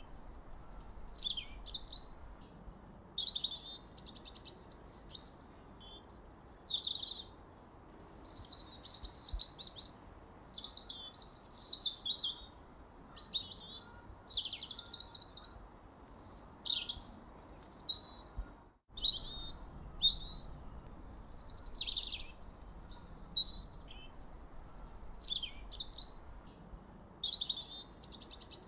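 Birdsong: a songbird singing a long, varied run of quick, high-pitched whistled and trilled phrases, one after another with hardly a pause. The sound cuts out for a moment about 19 seconds in, then carries on.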